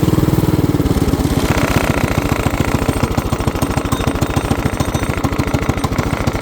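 Small petrol engine idling on choke with a rapid, even firing beat, just restarted in the cold. It runs reluctantly and has been stalling repeatedly, so it is being left to warm up.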